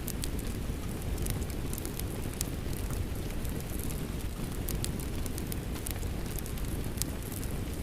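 Steady rain mixed with a crackling fireplace: a constant low rushing hiss with frequent small sharp crackles and pops from the burning wood.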